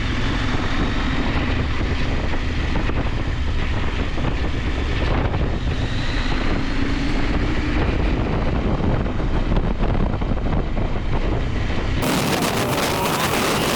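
KTM 890 Adventure's parallel-twin engine running under way, mixed with heavy wind rush on the microphone. Near the end the sound abruptly turns brighter and the engine's pitch is heard rising and falling more clearly.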